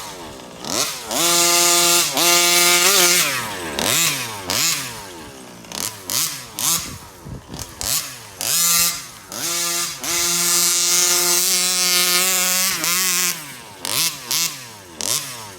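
Stock 36cc two-stroke engine of a Rovan FT360R RC truck revving hard in repeated throttle bursts: the pitch climbs and holds at full throttle for a second or two, then falls away, with quick short blips in between and near the end.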